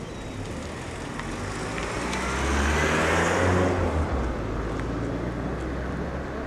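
A train passing by, its engine and wheel noise rising to a peak about three seconds in, then fading away.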